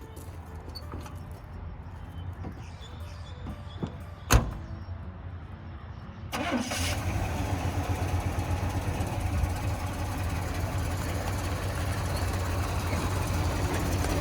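1984 Chevy C20's 350 V8 running low, with one sharp knock about four seconds in. About six seconds in the engine gets suddenly louder and stays steady as the truck is driven off under power.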